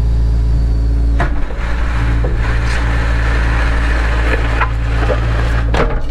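Cat 307 excavator's diesel engine running steadily, with sharp knocks about a second in and twice near the end, and a rushing noise in the middle.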